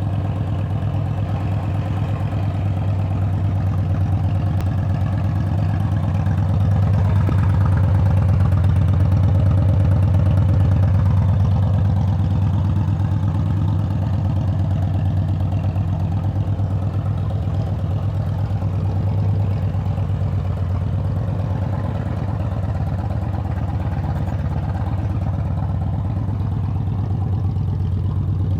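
Engine of an engine-swapped Can-Am Spyder three-wheeler idling steadily, growing a little louder for a few seconds partway through.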